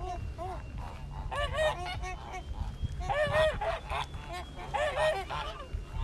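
Several geese honking in repeated bursts of short, arched calls, with a steady low rumble underneath.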